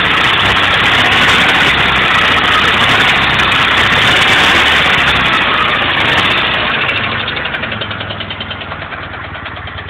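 Car engine running with a knock, loud at first, then settling after about six seconds into a quieter, evenly pulsing idle.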